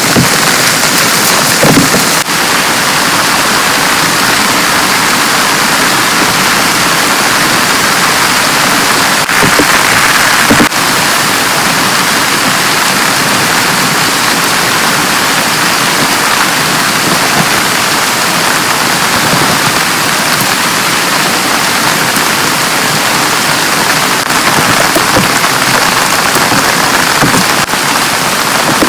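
Heavy rain falling steadily, an even dense patter with a few sharp louder taps scattered through it.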